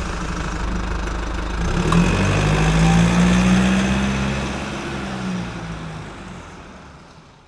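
An engine running steadily with a low hum, growing louder and slightly higher about two seconds in, then fading away towards the end.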